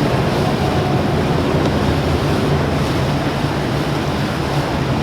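Motorboat engines running steadily, a low even hum under the rush of water and wind.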